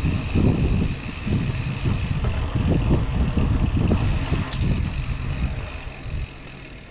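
Wind buffeting the action camera's microphone and mountain bike tyres rumbling over the trail while riding, easing off about six seconds in. A faint steady high-pitched whine runs underneath.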